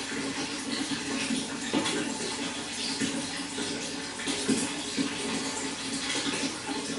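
Running water flowing steadily, with small irregular splashes.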